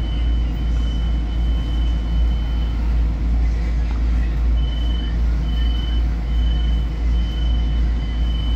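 Long Island Rail Road commuter train car standing at a station, heard from inside: a steady low hum and rumble. A thin high-pitched tone sounds steadily at first, then from about halfway in turns into a string of short beeps a little under a second apart.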